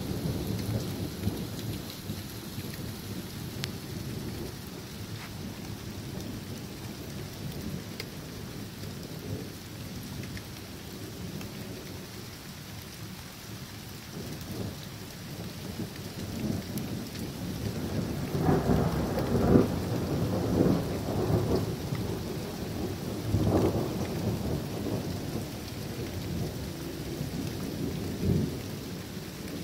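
Thunderstorm: steady rain falling, with rolling thunder rumbling underneath. The thunder swells into a louder, crackling peal a little past the middle, then rolls off.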